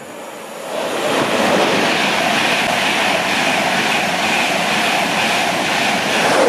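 Virgin Trains East Coast InterCity 225 electric passenger train running through the station at speed. Wheel-on-rail rumble and air rush from its coaches build up about a second in, then hold steady and loud.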